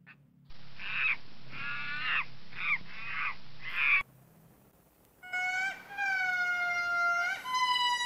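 Macaques giving a run of about five harsh screeching calls, which stop abruptly. After a short pause, ring-tailed lemurs give several long, steady wailing calls in a row.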